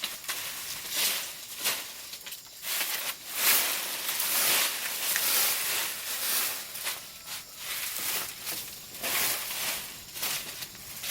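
Dry foliage rustling in a run of irregular swishes, about one or two a second, as leaves are handled or brushed against.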